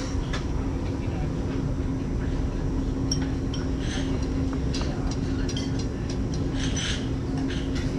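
Steady low drone of a ship's engines and hull vibration heard on board, with a constant hum and scattered light clicks and clinks.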